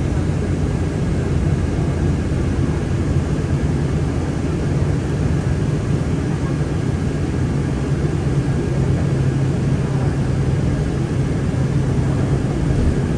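Interior of a city bus in motion: a steady low engine drone with road noise, heard from inside the passenger cabin.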